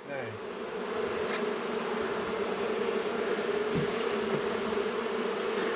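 Honey bees from an opened wall colony buzzing in flight around the microphone, a steady hum that swells during the first second and then holds.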